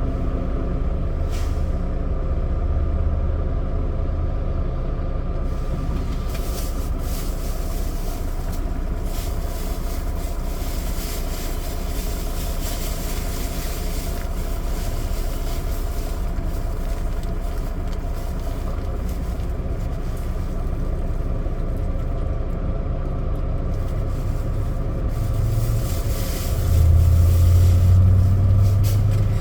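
Semi truck's diesel engine running steadily with road noise while driving. The low engine drone grows louder about three seconds before the end.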